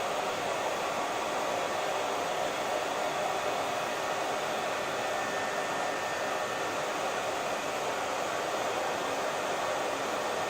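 Hair dryer running steadily: an even, unbroken whooshing hiss of motor and blown air.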